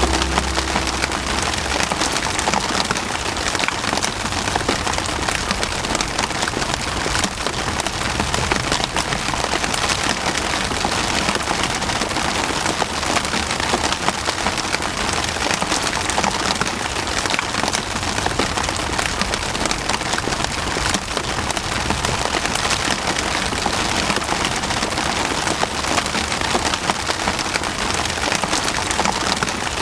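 Steady rain falling, a dense patter of drops striking a surface.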